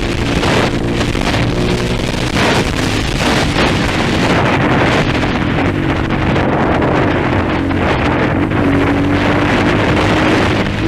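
230 trail motorcycle engine running under way, its pitch rising and falling with the throttle, with wind buffeting the microphone.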